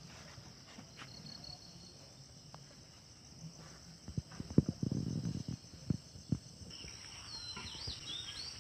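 Crickets or other insects trilling steadily, with a cluster of sharp knocks and a brief low rush about halfway through. A thin warbling call joins the trilling near the end.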